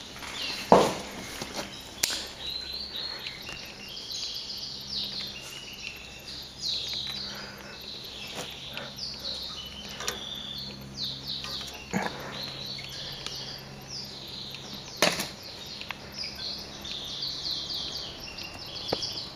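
Small birds chirping: many short, quick, high chirps in a steady chatter, with a few sharp knocks, the loudest about a second in, and a faint low hum underneath.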